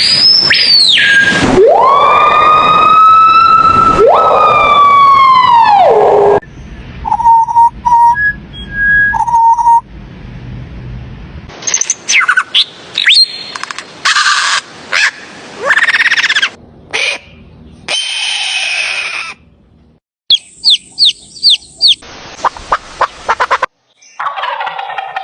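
A run of bird calls cut one after another: first a siren-like wail that rises, holds and falls twice, then a series of short whistles, chirps, trills and rapid repeated notes from different birds, each cut off abruptly.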